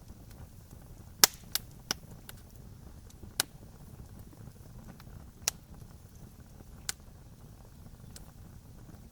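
Campfire crackling: a handful of sharp pops from burning wood, irregularly spaced over a low steady rumble, the loudest a little over a second in.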